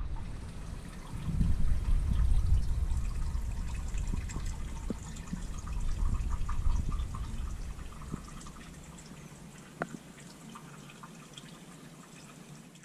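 Water dripping and trickling over a low rumble that swells about a second in and fades after about eight seconds, with scattered small clicks.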